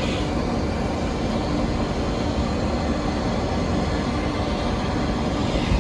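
Steady rumble and hum of rooftop HVAC equipment running.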